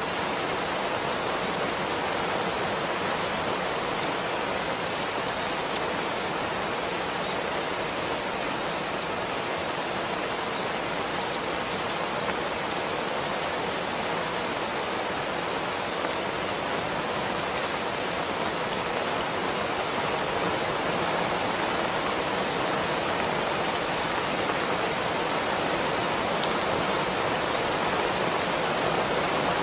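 Steady rain falling, an even hiss with faint scattered drop ticks, swelling slightly over the last several seconds.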